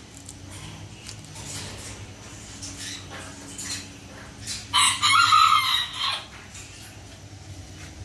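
A loud bird call lasting about a second and a half, starting a little under five seconds in, over a few faint clicks.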